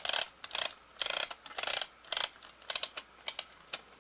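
VHS cassette's plastic tape reel being turned by hand, giving a string of short, irregular clicking bursts about two a second.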